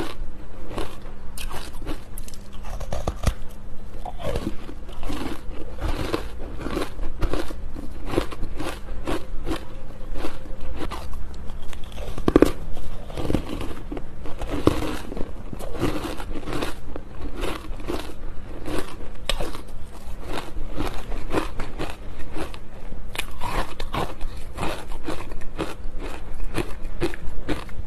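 Close-up crunching as a person bites into squeaky, fluffy ice: a rapid, continuous run of sharp crunches with no pause, over a faint steady hum.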